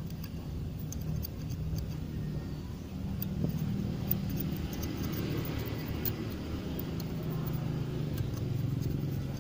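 A steady low engine hum in the background, with scattered light metallic clicks from brake caliper parts and tools being handled.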